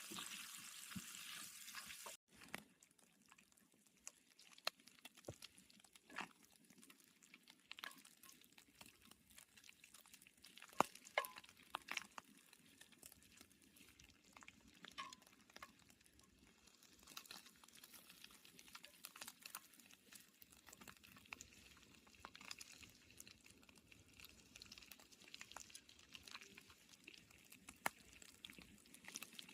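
Bacon frying in a pan: a steady sizzle for about the first two seconds, which cuts off abruptly, then faint, scattered pops and crackles.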